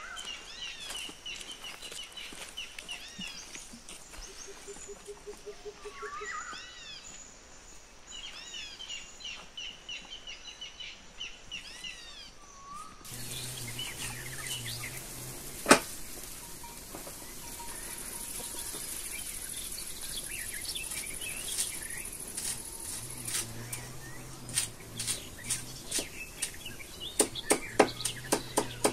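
Small birds chirping and singing in repeated phrases for the first half. After that, one sharp knock, then a large knife chopping herbs on a wooden stump block in quick, even strokes of about four a second toward the end.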